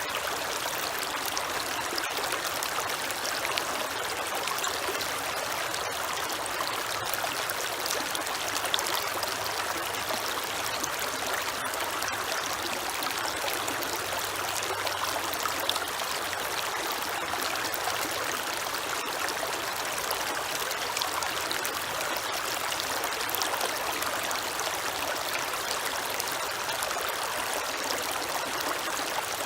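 A creek flowing steadily, a continuous rush and trickle of running water.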